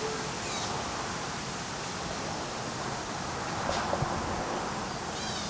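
Steady rushing noise like wind or outdoor hiss, with a few faint high bird chirps and a quick run of descending chirps near the end.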